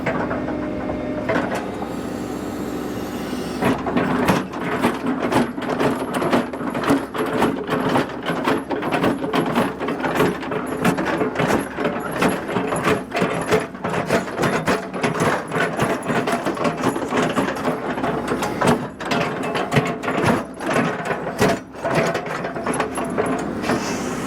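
A machine engine running, with dense, irregular rattling and clattering from about four seconds in until just before the end.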